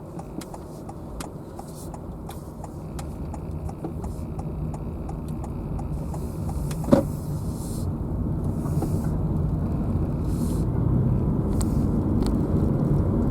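Car driving, its engine and road noise growing steadily louder as it gathers speed. Light regular ticking runs through the first half, and a single sharp click comes about seven seconds in.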